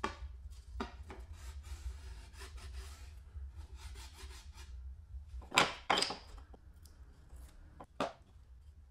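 Wood being worked by hand: a run of scraping, rubbing strokes over a low steady hum, with two loud sharp knocks a little past the middle and another near the end.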